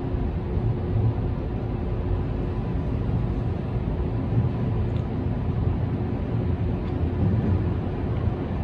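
Meitetsu 5000 series electric train running along the line, heard from inside the driver's cab: a steady rumble of wheels on rail with a faint constant hum.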